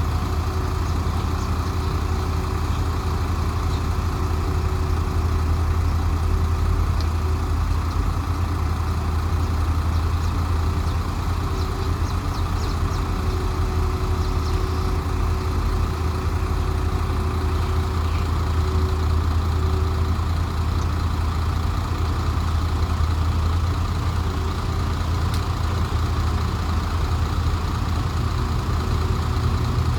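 Heavy diesel engine running steadily at an even, low speed.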